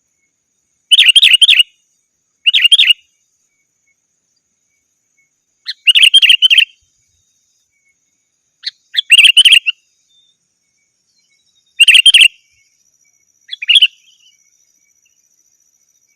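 Sooty-headed bulbul (kutilang) singing vigorously: six short, loud, bubbly song phrases of under a second each, separated by pauses of one to three seconds.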